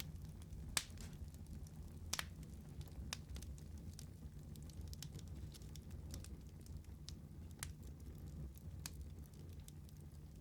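Wood fire burning in a fireplace, with a steady low rumble and scattered crackles and pops, the sharpest about a second and two seconds in.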